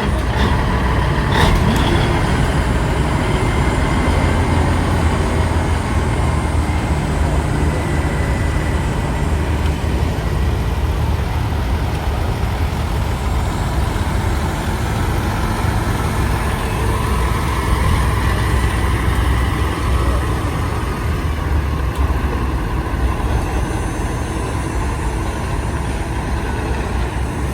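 Big rig trucks' diesel engines rumbling steadily as the convoy drives by, with a few sharp clicks in the first couple of seconds and a slowly rising engine note past the midpoint.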